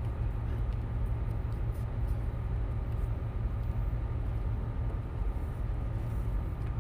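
Steady low rumble of a tugboat's engine running under way.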